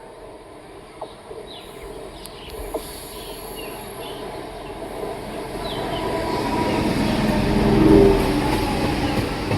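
EMU local train approaching on the rails, its rumble of wheels on track growing steadily louder and peaking about eight seconds in, with a few light clicks along the way.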